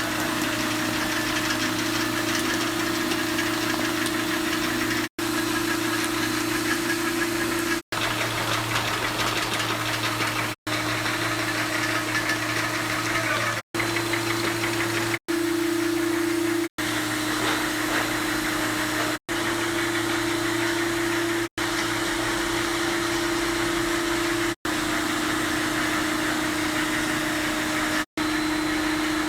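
Two-colour dishwasher tablet press running: a steady machine hum with a constant low tone and a busy mechanical clatter above it. The sound drops out for an instant about ten times.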